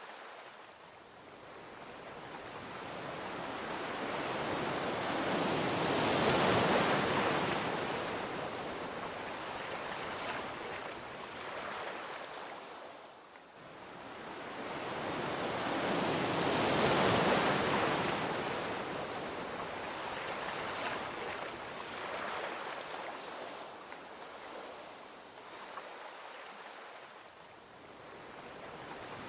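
Gentle ocean waves washing onto a beach: a hiss of surf that swells and ebbs, with two wave peaks about ten seconds apart.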